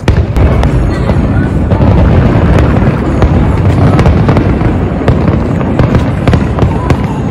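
Aerial fireworks going off: many sharp bangs and crackles in rapid succession over a continuous low rumble.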